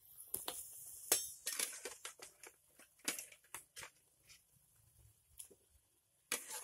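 Irregular crackling and popping over a steady high hiss, from cooking on a wood fire: chicken frying in spice paste in a wok, with the firewood burning beneath.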